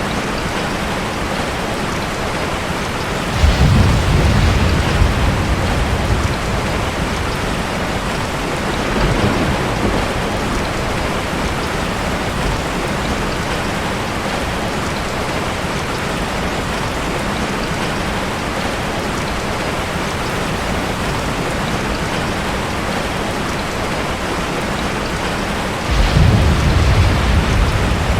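Steady heavy rain, with rolls of thunder about three seconds in and again near the end, and a fainter rumble around nine seconds in.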